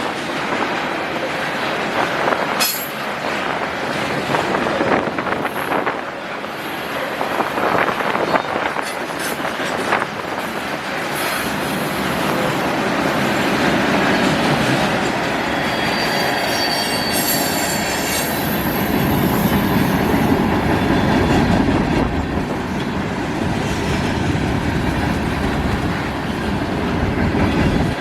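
Freight cars of a manifest train rolling past, steel wheels clicking over rail joints, with high-pitched wheel squeal near the middle.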